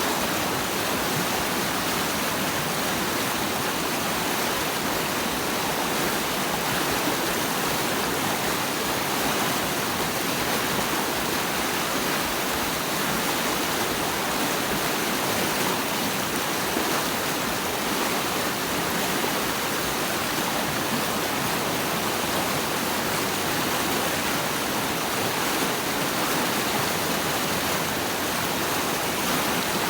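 Rushing water, a steady, unbroken hiss with no change throughout.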